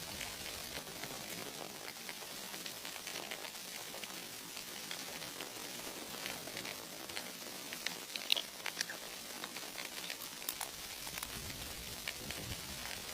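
Food sizzling as it fries in a pan over a campfire: a steady hiss full of small pops, with a few louder clicks about eight seconds in.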